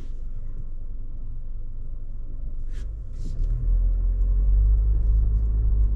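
Low rumble of a Honda ZR-V driving, heard from inside the cabin, growing louder about three seconds in.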